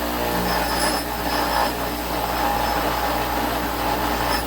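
Electric grinder running with its wheel pressed against a piece of smelted bloom iron for a spark test, a steady motor hum under the rough grinding noise.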